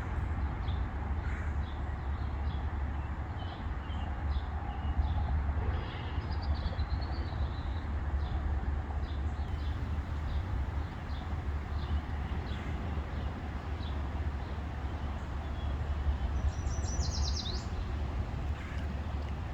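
Small songbirds chirping repeatedly in short high notes, with one quick falling trill near the end, over a steady low rumble.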